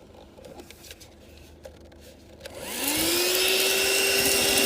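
Handheld car vacuum that plugs into the cigarette lighter, switched on about two and a half seconds in after a few faint clicks. Its motor quickly rises in pitch, then settles into a steady whine with rushing air.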